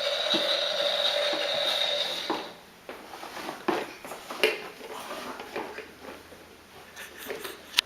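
Ride-on toy Caterpillar truck giving off a steady electric whine that cuts off about two and a half seconds in, followed by scattered light clicks and knocks.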